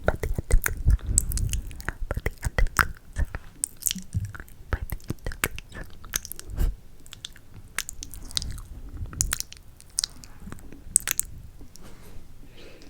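Close-miked ASMR mouth sounds: rapid, irregular wet clicks, smacks and kissing sounds, denser in the first few seconds and sparser near the end.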